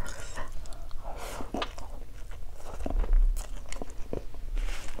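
Close-miked chewing: a person eating a mouthful of rice, with many small, irregular wet mouth clicks.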